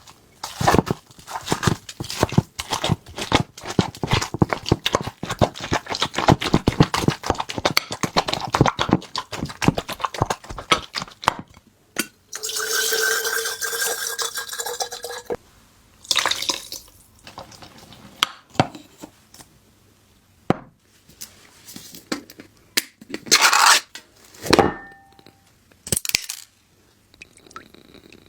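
Dense clicking, tapping and scraping of utensils and containers while cat food is portioned and mixed, then a steady pitched whir for about three seconds, followed by scattered separate clicks and knocks.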